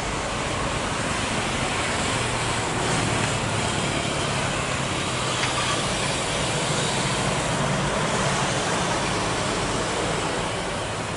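Steady rushing noise of a jet airliner's engines, swelling slightly and easing off near the end.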